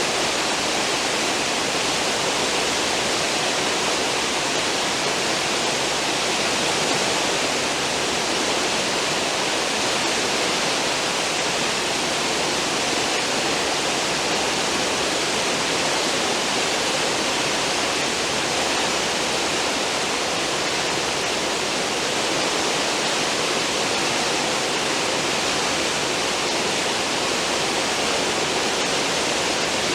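A cruise ship's stern wake: churning water rushing in a steady, even wash with no breaks or changes.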